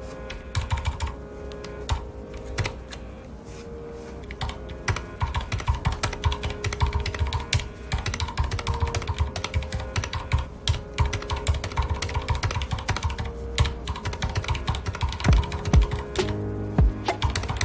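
Typing on a mechanical keyboard with red (linear) switches: irregular key strokes, sparse at first and then in quick dense runs from about five seconds in. Soft background music plays under the typing.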